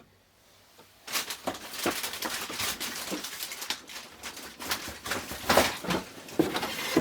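Handling noise: irregular rustles, clicks and knocks of things being picked up and moved about, starting about a second in.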